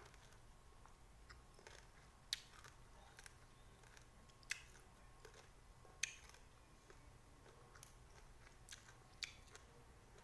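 Faint chewing of a small green lime, broken by a handful of short sharp clicks and crunches. One of the clicks, about six seconds in, comes as a hand reaches into a ceramic bowl of limes.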